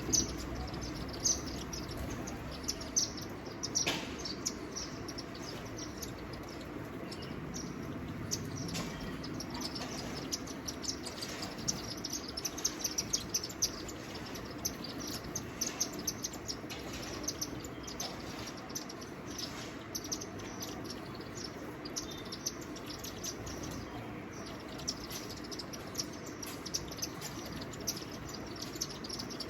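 Birds chirping: many short, high chirps in quick succession, busiest in the middle, over a steady low background hum of the outdoors.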